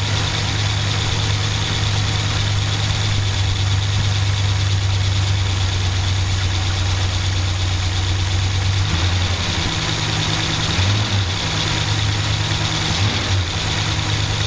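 1964 Chrysler 361 wedge big-block V8 idling steadily with its valve covers off and the rocker arms exposed, shortly after a cold start. The idle wavers briefly a little past the middle, then settles again.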